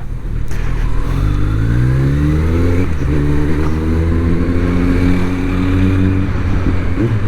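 Kawasaki Z900 engine breathing through a Mivv slip-on exhaust, pulling up through the revs under acceleration. A gear change comes about three seconds in, it pulls steadily again, and the pitch drops near the end.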